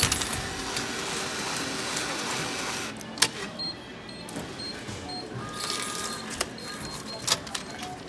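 Semi-self checkout payment machine at work: a whirring mechanical run for about three seconds, then a few sharp clicks and a string of short, high repeated beeps, typical of the machine finishing a cash payment and handing out change and receipt.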